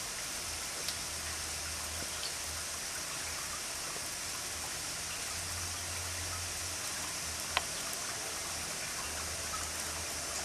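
Steady hiss of water showering down, with a single sharp click about seven and a half seconds in.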